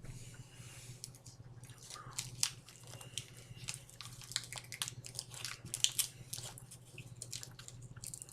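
A person chewing a soft cheese stick close to the microphone: irregular wet mouth clicks and smacks, over a steady low hum.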